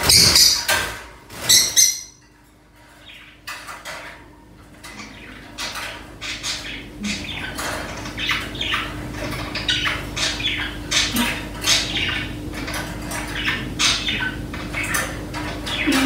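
Small caged birds calling in quick, short chirps and squawks, with wings fluttering against the wire cage. Two loud bursts come in the first two seconds, and a low steady hum runs underneath.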